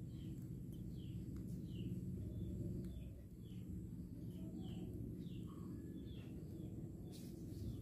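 Small bird chirping over and over, short high falling chirps about two a second, over a steady low hum.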